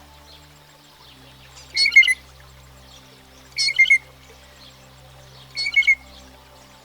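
Blue jay giving harsh calls: three of them about two seconds apart, each in two quick parts.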